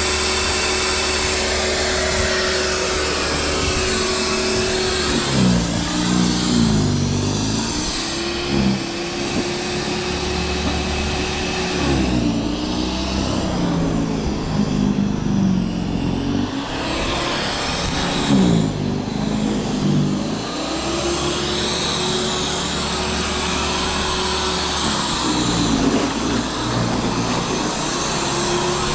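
A motor vehicle's engine running, its pitch falling and climbing again several times as it revs up and down.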